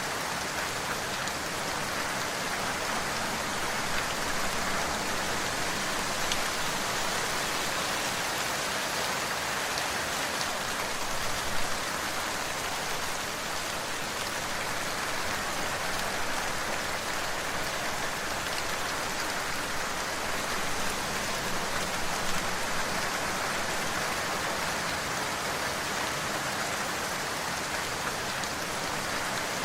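Steady rain falling and hitting a surface, an even hiss with a few slightly louder drops, one near the middle.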